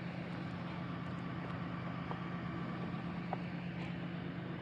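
Steady low mechanical hum with an even rushing background and a couple of faint ticks.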